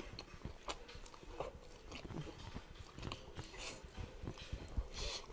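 Close-up mouth sounds of a person eating with his hands: wet chewing and lip-smacking on a mouthful of cooked meat, with irregular clicks and smacks and the soft tearing of pieces of meat.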